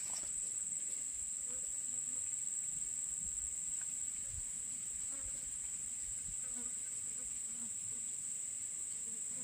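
Steady, high-pitched insect drone, continuous and unbroken.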